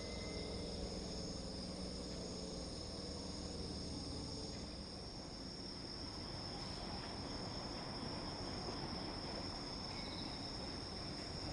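Crickets chirping steadily in a high, even drone, over a low hum that fades over the first few seconds.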